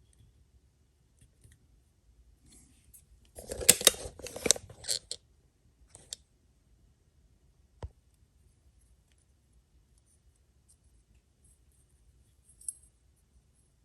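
Small hard parts being handled: a dense run of rapid clicking and scraping lasting under two seconds about three and a half seconds in, then a few single clicks and one sharp knock near the middle.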